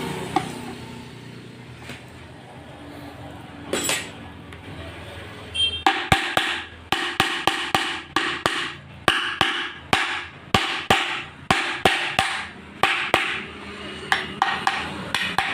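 A quick series of sharp, ringing knocks, roughly three a second, starting about six seconds in after a fainter stretch with a few single knocks.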